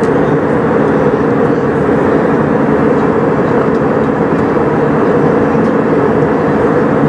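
Steady cabin roar of an Airbus A320 in its climb: jet engine and airflow noise, dense and unbroken, strongest in the low-middle range.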